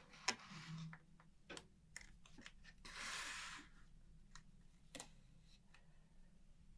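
Faint scattered clicks and light taps, with two short hissing bursts, the second and louder one about three seconds in.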